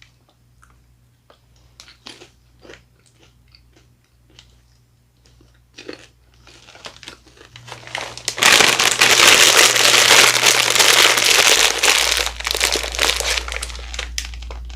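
Snack bag crinkling in scattered short rustles, then a loud, dense stretch of crinkling and crunching, from Cocoa Puffs popcorn eaten close to the microphone, starting about eight and a half seconds in and easing off a few seconds later.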